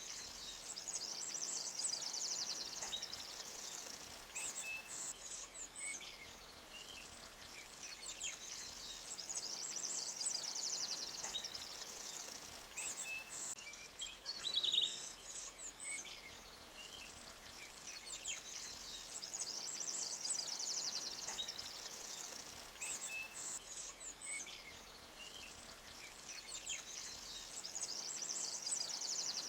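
Forest ambience: high bird trills come back about every nine seconds, with short scattered chirps, over a faint steady hiss of a running creek.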